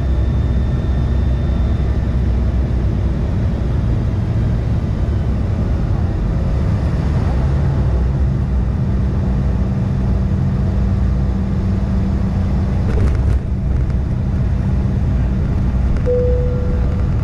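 Steady low rumble of engine and airflow noise inside the cabin of a United CRJ-550 regional jet, whose two turbofans are mounted at the rear. A brief knock comes about 13 seconds in, and a short steady tone sounds near the end.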